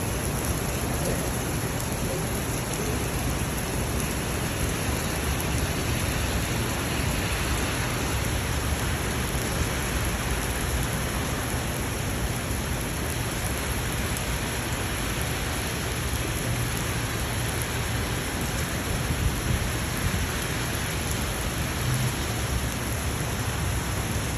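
Steady rain falling, an even hiss of rain with no clear breaks.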